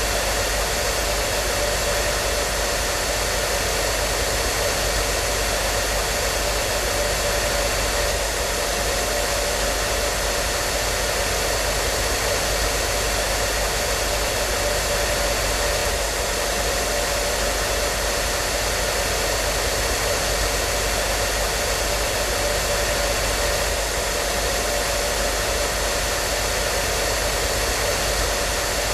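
Hair dryer running steadily: an even rushing blow of air with a constant motor hum and a faint high whine.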